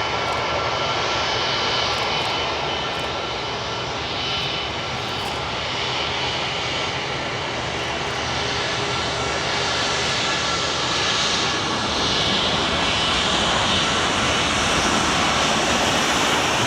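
Airliner jet engines running, a steady rush of noise with a thin, steady whine, growing slightly louder in the last few seconds.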